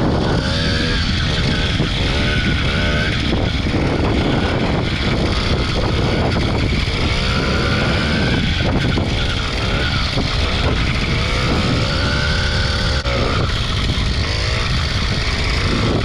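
80cc two-stroke motorized bicycle engine running under riding load, its pitch rising and falling again and again as the throttle is worked, with heavy wind noise on the microphone.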